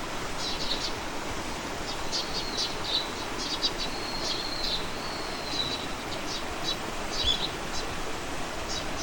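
Small songbirds chirping and singing in short high notes, with a few brief held whistles, over a steady background hiss.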